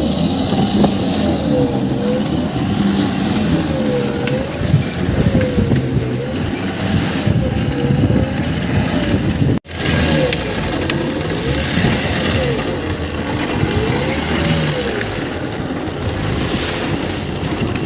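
Fishing boat's engine running steadily, its whine rising and falling in pitch about once a second over a low rumble, with a brief break about halfway through.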